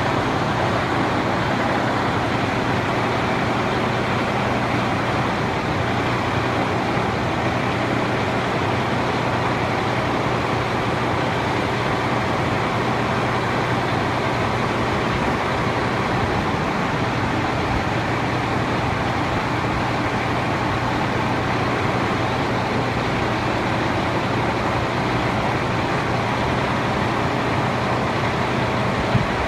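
Case IH MX100 tractor's diesel engine running at a steady speed, with an even, unchanging hum and no rise or fall in pitch or level.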